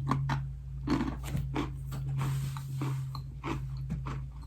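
Crunching and chewing of a small crisp vanilla wafer cookie close to the microphone, a run of irregular crunches, over a steady low electrical hum.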